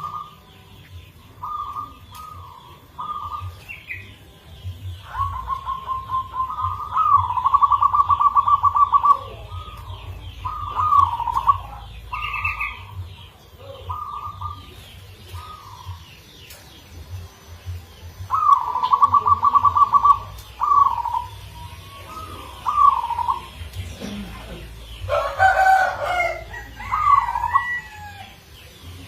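Zebra dove (perkutut) cooing in repeated phrases, with drawn-out rolling trilled coos twice. Other birds chirp briefly, and a louder call from another bird comes about 25 seconds in, over a steady low hum.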